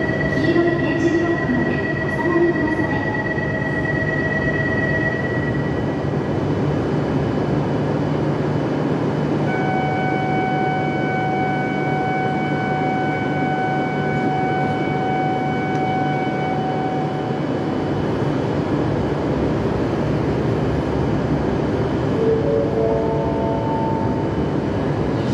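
A stopped E7 series Shinkansen train and its platform give a steady hum. A high steady tone sounds until about six seconds in, and a long steady electronic signal tone sounds for about seven seconds in the middle. Near the end comes a short rising run of chime notes, as departure approaches and the doors close.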